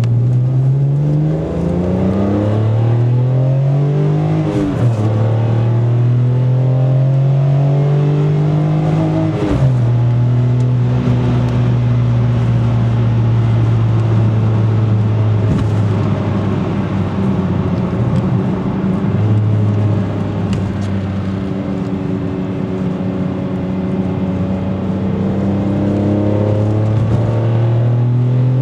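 BMW E46 M3's straight-six engine sounding through a BCS stainless steel performance exhaust, pulling up through the revs with a sharp drop in pitch at each gear change, about 5 and 10 seconds in. It then holds a steady note at speed, with a further rise in revs near the end.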